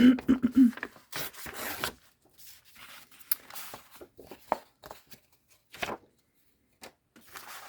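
Paper scraps being handled and shuffled: scattered rustles and light taps, with a longer rustle about a second in, then a brief pause near the end.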